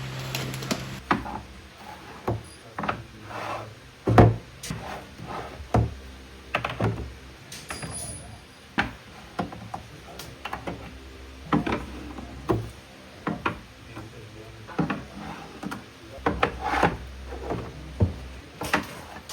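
Irregular light knocks and rubbing on a wooden surface, a sharp tap every half second to a second or so, like things being handled and set down on wood.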